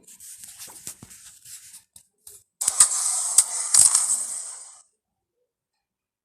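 Carrom pieces sliding across a powdered carrom board, hissing, with a few sharp clacks as pieces strike each other. A faint slide comes first, then a louder one about two and a half seconds in that lasts about two seconds.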